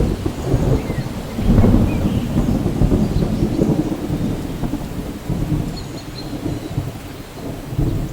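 Low rolling thunder rumbling on over steady rain, swelling about a second and a half in. A few faint, short bird chirps sound high above it.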